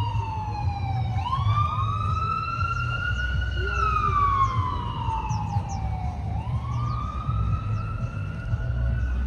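Emergency vehicle siren in a slow wail: the pitch climbs quickly, levels off, then slides slowly down, about twice. A steady low rumble runs underneath.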